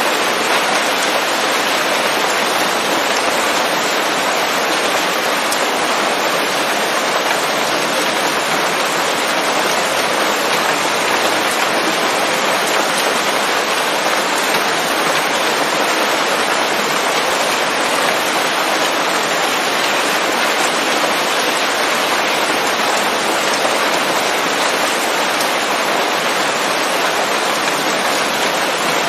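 Steady rain falling on leaves, an even hiss that holds at the same level throughout.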